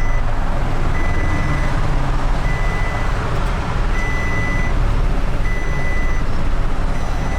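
A truck's reversing alarm beeping steadily, one beep about every second and a half, over the low running noise of the truck's engine: the truck is backing up.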